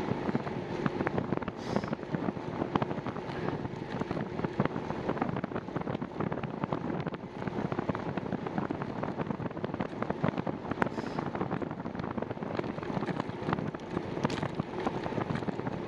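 Wind rushing over the microphone of a camera on a moving bicycle, steady throughout, with many small clicks and rattles from the ride mixed in.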